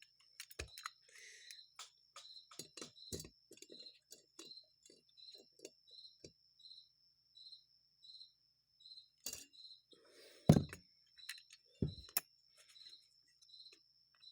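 A cricket chirping steadily, about two chirps a second, over light clicks and taps from work on the carburetor's float tangs, with two louder knocks late on.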